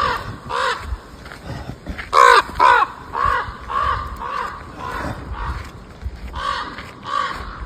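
Crows cawing repeatedly: a string of short, harsh caws about two a second, the loudest two a little over two seconds in.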